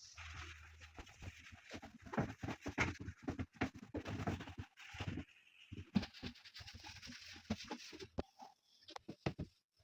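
Household handling sounds: a rapid, irregular run of light clicks and knocks with rustling, as things are moved about during cleaning.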